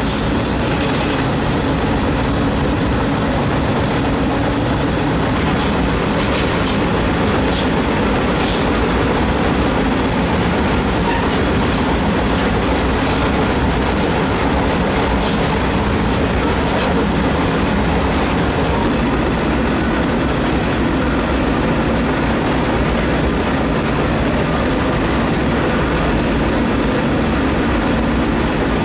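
Moving freight train: the steady rumble and rattle of wheels on the rails and the car itself, heard from the end porch of a covered hopper car, with a few faint clicks through the first twenty seconds.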